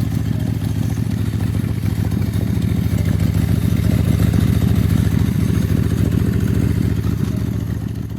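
Motorcycle engine running steadily with rapid firing pulses, fading out near the end.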